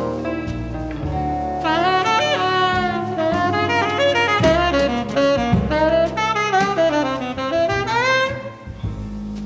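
A band playing jazz-flavoured music: a lead melodic line with scooping, sliding pitch bends over a walking low bass and chords.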